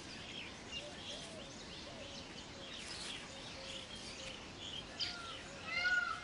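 Weaver birds chattering in their nesting colony: many short, high chirps throughout, with a few louder, lower chirps near the end.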